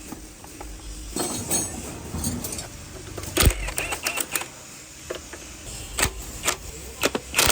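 Metal tools and engine parts being handled: irregular sharp clicks and clattering knocks, the loudest about three and a half seconds in and a quick run of them near the end.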